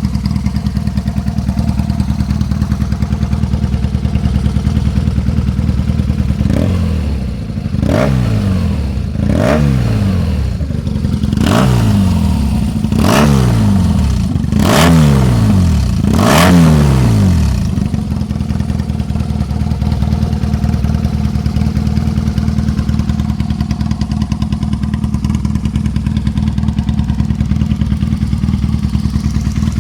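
Custom BMW R nineT's boxer twin engine, likely straight-piped, idling, then blipped about six times in quick succession over roughly ten seconds, each rev rising sharply and falling back, before settling into a steady idle again.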